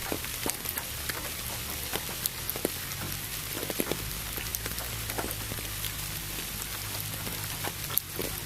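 Steady rain, with many close raindrops ticking sharply on a surface, over a continuous hiss and a low steady hum.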